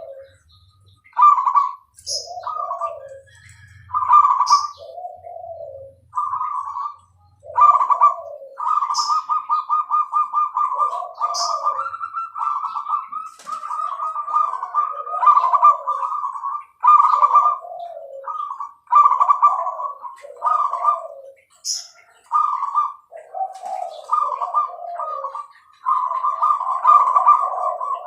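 Zebra dove (perkutut) cooing: its trilled, rolling song phrases repeat one after another, nearly without pause from about six seconds in. Short, sharp high chirps break in every few seconds.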